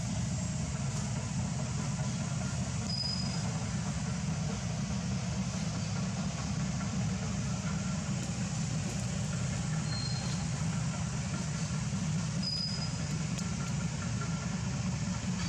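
Steady low outdoor rumble with no clear start or stop. A few brief, faint high chirps sound about three, ten and twelve seconds in.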